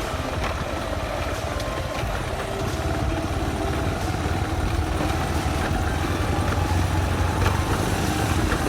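Motorcycle engine running steadily while being ridden, a continuous low rumble that grows slightly louder toward the end.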